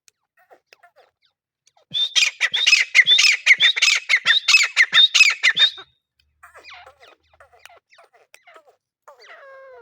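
Grey francolin calling: about two seconds in, a loud, fast run of shrill repeated notes lasts about four seconds, followed by fainter scattered calls and a falling note near the end.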